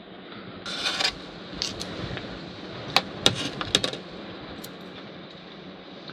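Metal utensils clinking and scraping against cookware: a short scrape about a second in, then a quick run of sharp clinks around three to four seconds in.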